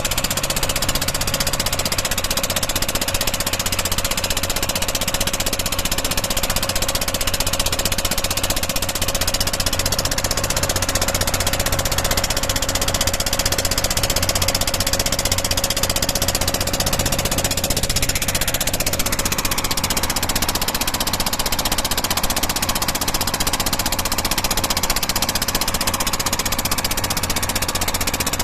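Ferry boat's motor engine running steadily under way, with a fast, even beat.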